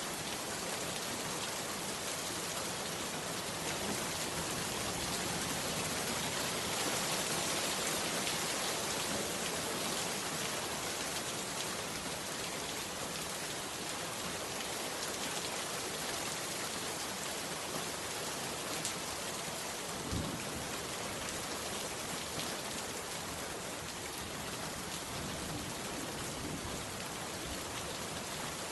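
Heavy rain falling in a steady, dense hiss, with one brief low thump about two-thirds of the way through.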